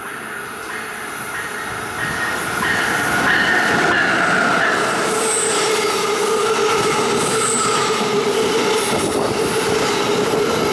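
A passenger train moving through the station, its steel wheels squealing on the rails. It gets louder about two seconds in, then holds steady with sustained high-pitched squealing tones over the rolling rumble.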